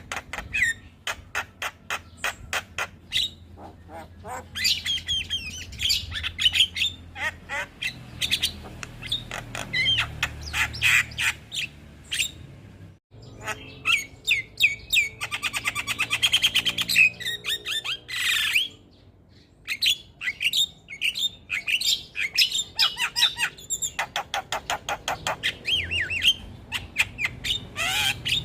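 Javan myna (jalak kebo) song: rapid chattering clicks, harsh squawks and whistled notes, with a fast, even rattling trill about halfway through.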